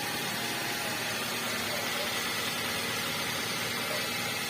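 Toyota Avanza engine idling steadily.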